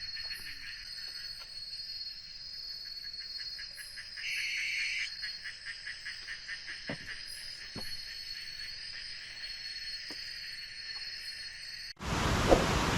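Forest insects trilling steadily at night, a fast pulsing chorus with a louder buzzing call for about a second, four seconds in, and a few faint clicks. Near the end it cuts suddenly to a loud, steady downpour of rain.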